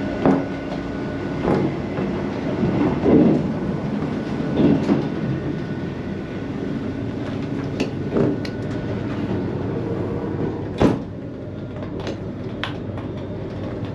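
Steady running rumble of a CrossCountry Voyager diesel train, heard from between the carriages, with scattered clicks and knocks. A sharp clunk near the end, after which the rumble is a little quieter, is the accessible toilet's sliding door shutting.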